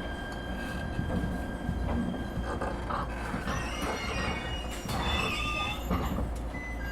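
Echigo TOKImeki Railway ET127 series electric train heard from inside the passenger car, coming to a stop, with high-pitched wheel squeal over a low rumble from under the floor; the squeal is strongest a little past the middle.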